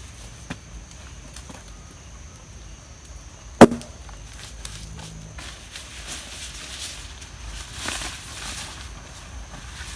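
A single sharp crack a little over three and a half seconds in, followed by light rustling.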